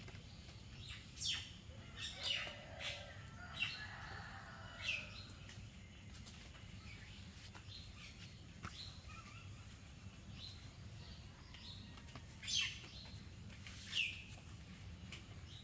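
Birds calling: short, sharp chirps that drop in pitch, several in the first few seconds and two more near the end, over a low steady background hum.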